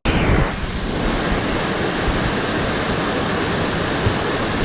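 Waterfall rushing: a loud, steady wash of falling water that starts abruptly.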